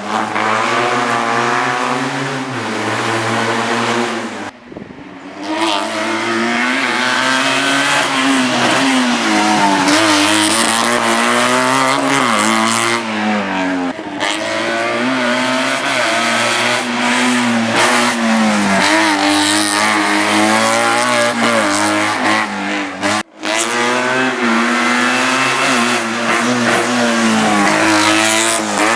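Race car engine at high revs, the pitch rising and falling over and over as the car accelerates and lifts through the slalom course. Twice the sound briefly drops away.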